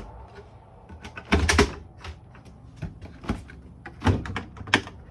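Storage cabinet doors being opened and shut, a series of knocks and clacks at irregular spacing, loudest about one and a half seconds in.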